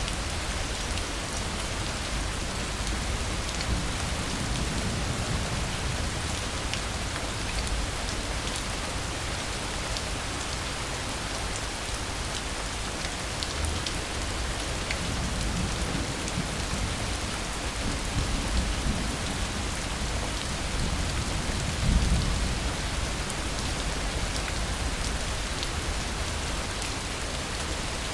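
Steady heavy rain falling on surfaces, with low rolls of distant thunder now and then; the strongest rumble comes about three-quarters of the way through.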